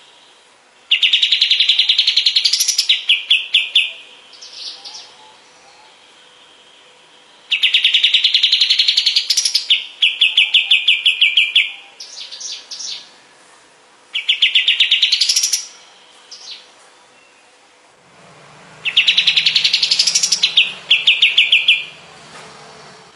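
Kapas tembak bird singing in four loud bursts with pauses of a few seconds between. Each burst is a fast trill rising in pitch, ending in a quick run of sharp repeated notes.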